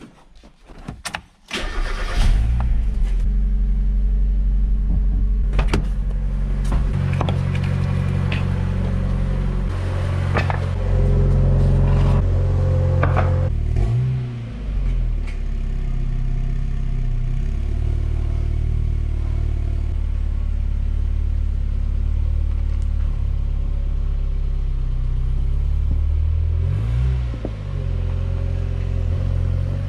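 Mazda MX-5 Miata's four-cylinder engine started after a few clicks about two seconds in, then running at low revs while the car pulls slowly forward, with a short rise in revs around the middle.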